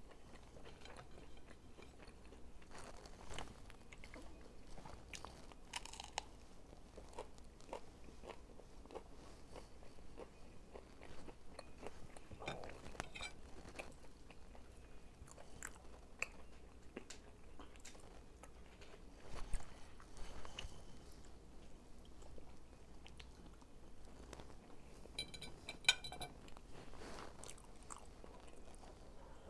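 Close-miked mouth sounds of eating fried chicken: irregular crunching bites and chewing, with a few sharper clicks scattered through.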